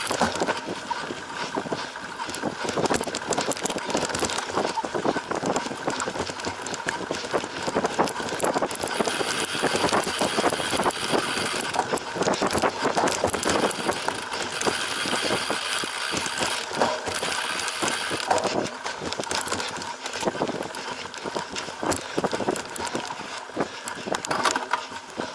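Cyclocross bike ridden hard over a bumpy off-road course: the bike rattles and clatters over the rough ground with many small knocks, over a steady rush of tyre noise.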